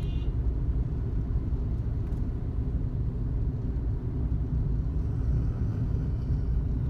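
Steady low rumble of a car driving, with no sudden events.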